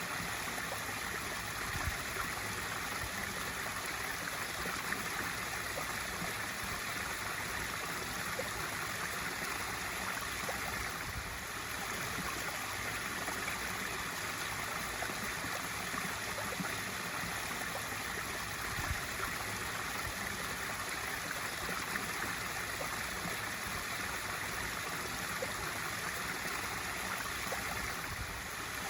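Pool waterfall feature: water pouring steadily over the spillway and splashing into the pool, a constant rushing and trickling.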